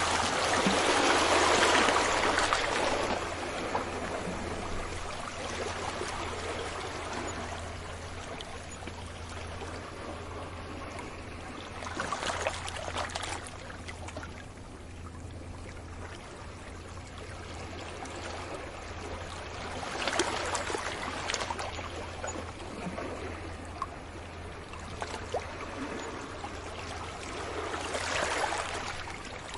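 Sea waves breaking on a beach and washing back, a steady rush of surf with a wave swelling up four times, about every eight seconds, the first the loudest.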